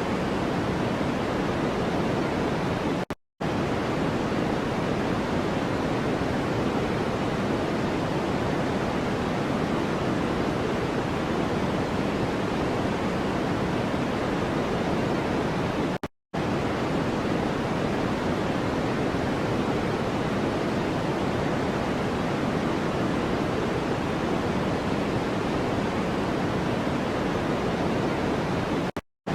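Steady noise-machine hiss, fuller in the low and middle range than a bright white hiss, with no tones or rhythm. It cuts to dead silence for a split second three times, about 13 seconds apart, where the track loops.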